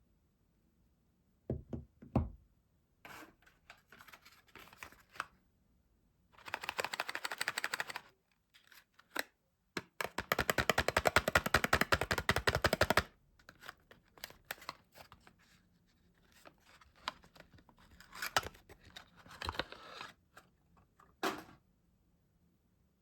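Soap packaging being unwrapped by hand: a couple of thunks about two seconds in, then two stretches of fast crinkling and tearing of the wrapping, the second about three seconds long, with lighter rustling and handling in between and a last thunk near the end.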